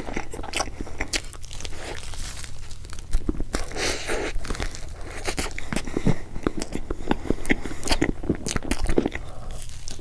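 Close-miked chewing of a mouthful of chocolate layer cake and whipped cream: irregular wet smacks and mouth clicks, with a big bite taken near the end.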